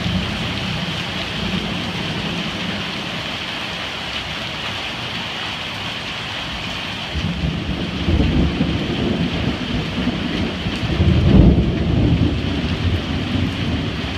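Heavy rain pouring onto paving and a flooded yard, a steady hiss of rain and running runoff water. A low rumble swells in about seven seconds in and peaks around eleven seconds.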